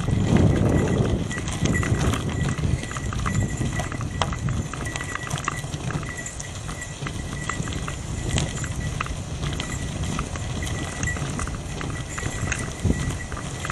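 Bicycle rolling over a rough gravel forest road: irregular clicks and knocks from the tyres and the rattling frame, over a low rumble of wind on the microphone.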